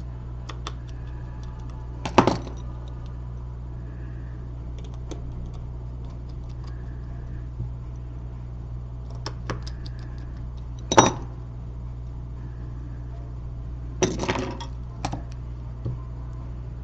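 Sharp clicks and taps of small tools and parts during the reassembly of an iPhone 6 Plus: a few scattered clicks, the loudest about 11 seconds in and a quick cluster near 14 seconds. A steady low hum sits underneath throughout.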